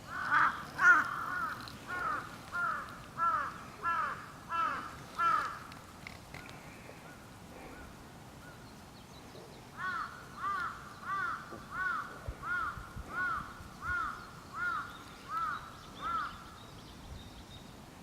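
Crow cawing in two quick runs of repeated caws, about eight and then about ten, with a pause of several seconds between them.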